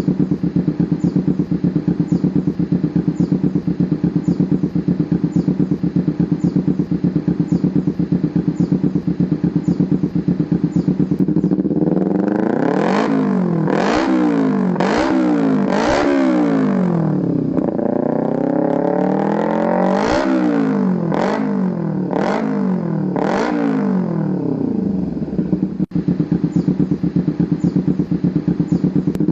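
Yamaha New Vixion Lightning's single-cylinder four-stroke engine, breathing through an Akrapovič aftermarket exhaust, idles steadily. About twelve seconds in it is blipped through a series of quick revs that rise and fall, then it settles back to idle. It revs once more near the end.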